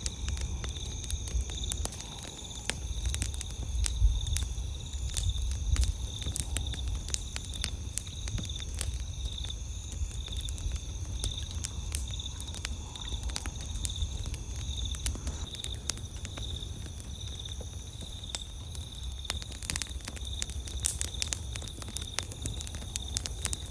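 Wood campfire crackling, with frequent sharp pops and snaps, over a steady high trilling of night insects and a low rumble.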